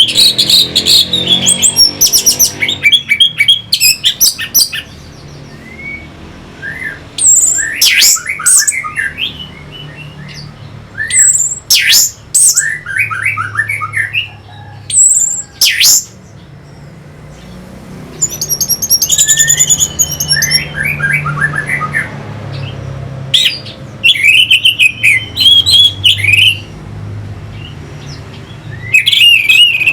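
Orange-headed thrush singing: loud bursts of varied whistled phrases and rapid trills, broken by short pauses, over a low steady hum.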